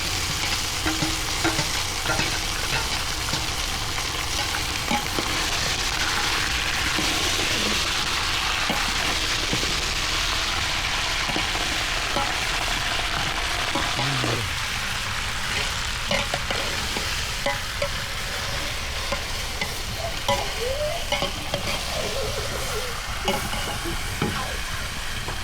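Food frying in a hot pan with a steady sizzle, broken by scattered clicks and scrapes of stirring.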